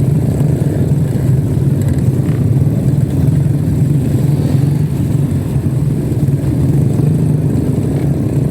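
Motorcycle engine running at a steady speed: a loud, even low drone with no revving.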